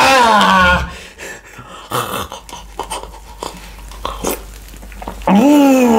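A man's drawn-out, wordless vocal exclamations falling in pitch: a short one at the start and a longer one near the end. Between them come small quieter clicks and slurps as he tastes a drink.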